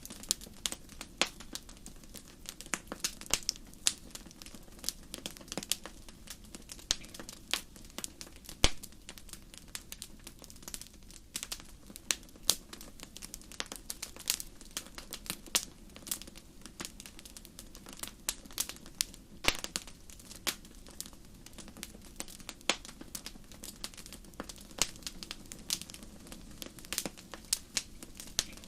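Wood campfire crackling: many irregular sharp pops and snaps over a low, steady rush of flame.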